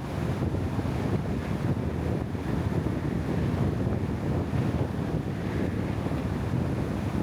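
Steady wind noise buffeting the microphone, a continuous low rushing sound with no breaks.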